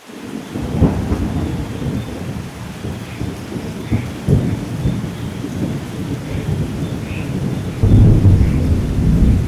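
Steady heavy rain with rolling thunder, fading in at the start. Thunder cracks about a second in and again past four seconds, and a loud, deep rumble builds near the end.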